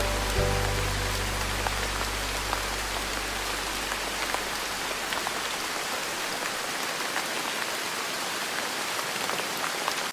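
Steady rain falling, an even hiss with scattered louder drops. A soft sustained music chord fades out over the first few seconds, leaving the rain alone.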